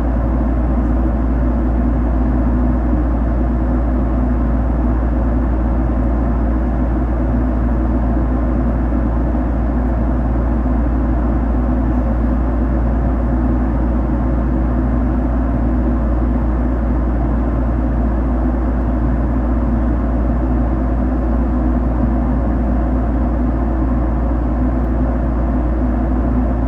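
Steady engine and air noise heard inside a jet airliner's cabin: a constant deep rumble under an even rush, unchanging throughout.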